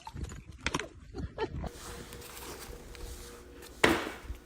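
A dog making a few short sounds, then one sudden loud sound near the end.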